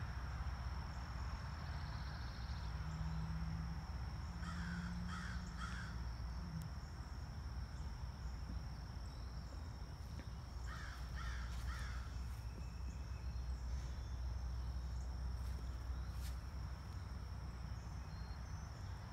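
A bird calling in two runs of three short calls, about six seconds apart, over a steady high insect drone.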